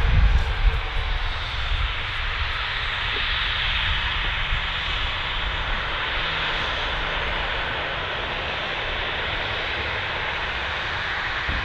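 Ryanair Boeing 737's jet engines at takeoff power during the departure roll, a steady roar over a low rumble.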